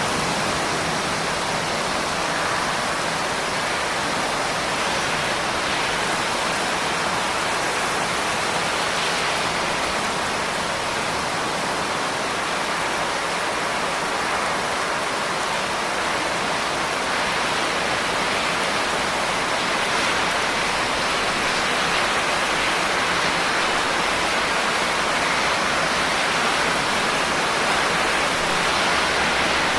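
Steady, dense rainfall: a continuous even hiss of rain with no distinct drops standing out.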